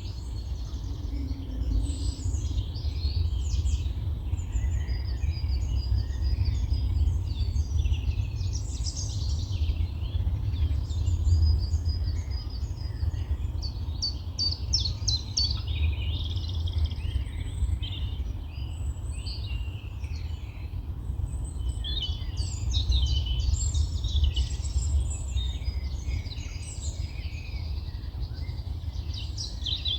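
Several songbirds singing and calling at once, a steady mix of overlapping chirps and trills, over a constant low rumble.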